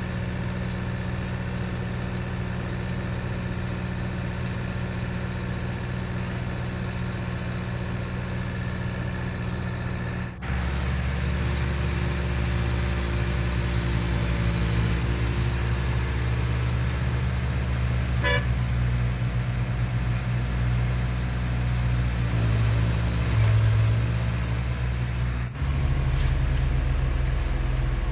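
Diesel engines of construction machinery running steadily, with abrupt changes in engine sound about 10 s and 25 s in, and a brief horn toot about 18 s in.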